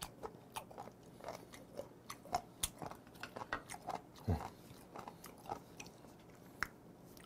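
Close-miked chewing of raw sliced shellfish (abalone and horned turban): small wet crunches and clicks scattered throughout, with a brief low throat sound just after four seconds in.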